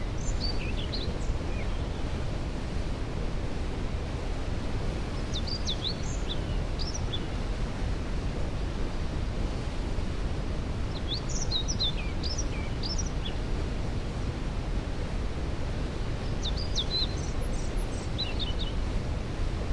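Waterfall rushing steadily, a deep, even noise. Over it a songbird sings short phrases of quick high notes, four times, about every five to six seconds.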